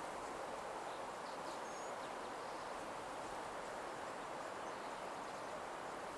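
Steady, soft nature ambience: an even rushing wash like wind in leaves, with a few faint, short bird chirps about a second or two in.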